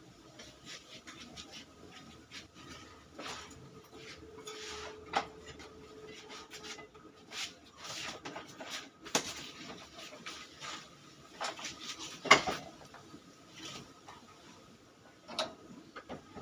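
Scattered clinks, knocks and scraping of metal engine parts and hand tools being handled during scooter engine work, with one sharper clack about twelve seconds in.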